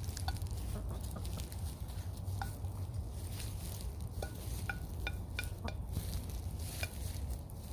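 Hens pecking at salmon scraps on a plate: irregular sharp beak taps against the plate, mixed with a few short soft clucks.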